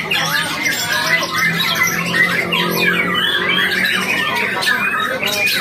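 White-rumped shama (murai batu) singing a loud, rapid, varied song of quick whistled sweeps and chirps. A steady low hum runs underneath.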